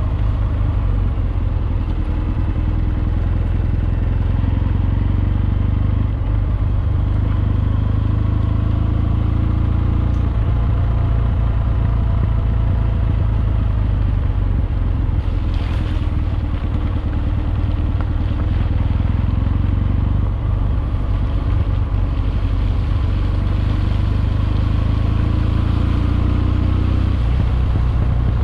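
Kawasaki W650's air-cooled parallel-twin engine running while the motorcycle is ridden, a steady low drone whose pitch shifts several times as throttle and gears change.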